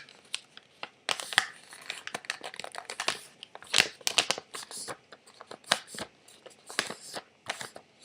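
A sheet of paper rustling and crackling in irregular bursts as it is folded in half and creased into a paper airplane.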